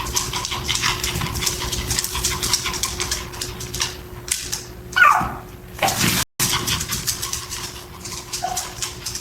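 Dogs whimpering and barking at the illusion rug, with a loud whine that falls in pitch about five seconds in. The sound cuts out for a moment shortly after.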